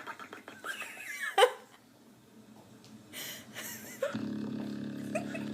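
Dog snoring in an odd way: a rattling, fluttering breath for the first second and a half ends in a sharp snort, a short airy hiss comes about three seconds in, and a steady droning snore starts about four seconds in.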